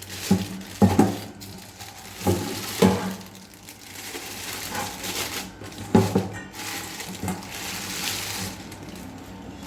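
Raw chicken being cut into large pieces: several irregular knocks and thuds of the blade, with rustling and handling noise between them.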